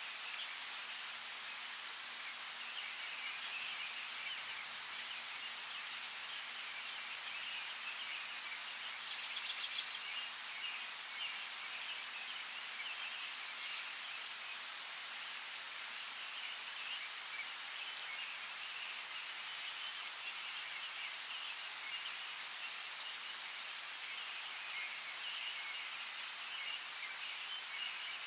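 Steady rain patter with small birds chirping on and off. About nine seconds in, a louder quick run of high notes lasts about a second.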